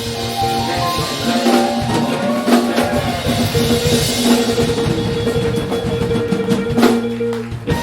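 Live rock band playing: held keyboard and guitar chords over busy drumming on a drum kit, with one loud hit about seven seconds in.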